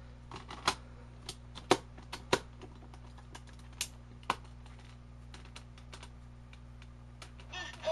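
Irregular sharp clicks and taps from small plastic Gaia Memory toys being handled and fitted, a few loud clicks among many light ones.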